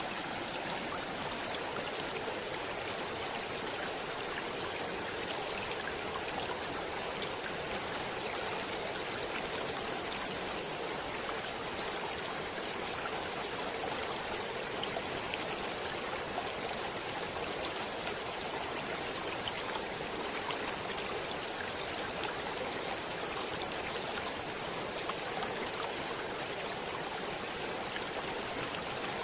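A stream of water running steadily over rocks, a continuous even rush with small splashes and trickles.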